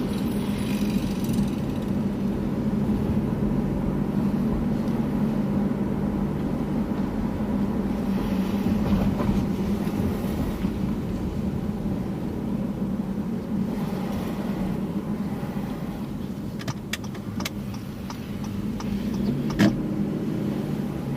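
Steady engine and road noise of a car being driven slowly, a constant low hum. A single sharp knock sounds near the end.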